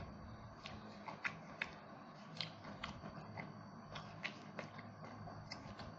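Close-miked eating of roast duck: chewing, and crispy skin and meat being torn apart by hand, heard as scattered sharp crackles and wet clicks.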